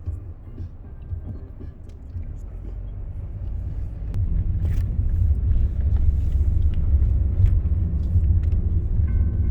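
Low road and engine rumble heard inside a moving car's cabin, growing louder about halfway through.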